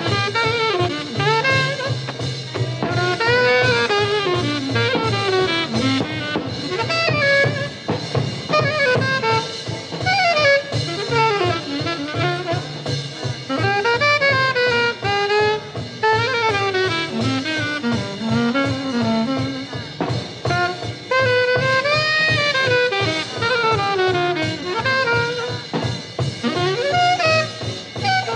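Bebop small-group jazz: a horn plays fast, winding melodic lines over walking bass and drums.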